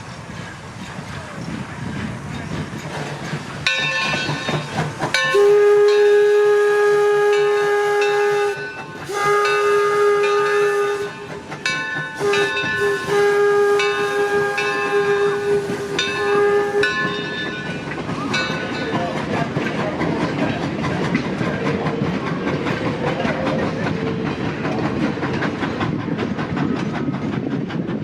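Torch Lake steam locomotive's whistle blowing several long blasts over about thirteen seconds, then the train running on with a steady rumble and rail clatter.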